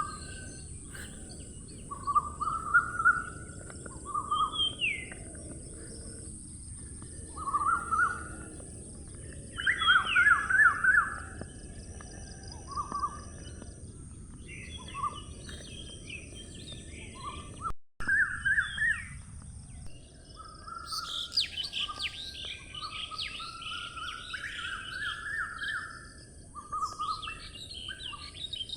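Songbirds chirping and singing in short repeated phrases, several overlapping and busiest in the last third, over a steady rushing background and a constant high hiss. The sound cuts out for an instant a little past the middle.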